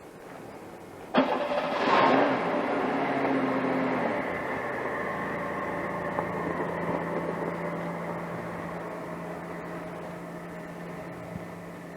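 A sharp click about a second in, then a steady mechanical drone, as of a motor or engine, that is loudest just after it starts and slowly fades.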